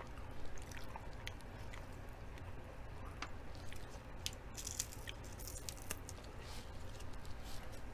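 Close-up eating sounds: chewing with wet clicks, then crisp crunching and crackling as a red lettuce leaf wrap is bitten, about halfway through.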